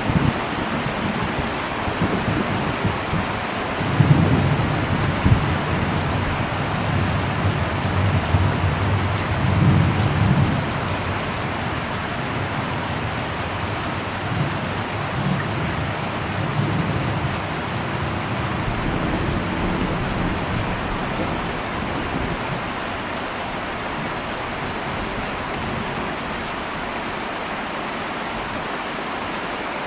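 Heavy rain drumming steadily on an old metal roof, with low rolls of distant thunder swelling for several seconds from about four seconds in and again midway, fading out in the last third.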